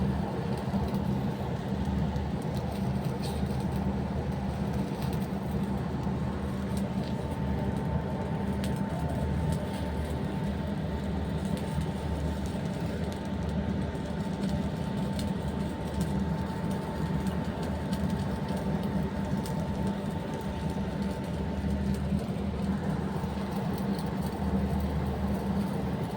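Steady machinery drone: a low hum with a thin steady whine above it that stops about 22 seconds in.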